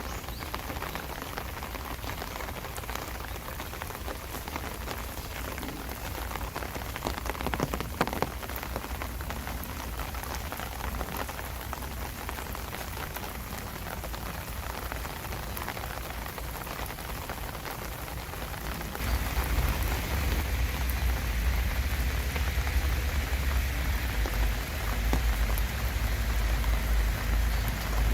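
Steady rain falling, a dense patter of drops. About two-thirds of the way in it abruptly gets louder and heavier.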